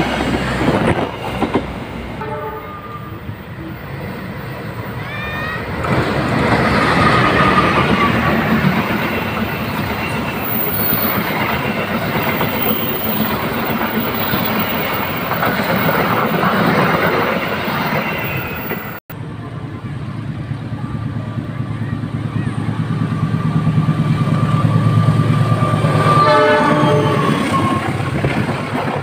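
Trains passing close below, with a loud steady rumble of wheels on rails. Short stacked horn-like tones sound a few seconds in and again near the end. The sound cuts off abruptly about two-thirds of the way through and picks up again at once.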